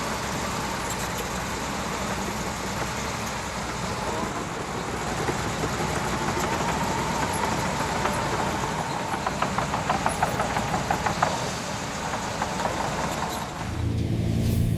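Bulldozer diesel engine running steadily, with a rapid clatter of metal clicks about nine to eleven seconds in. Music comes in near the end.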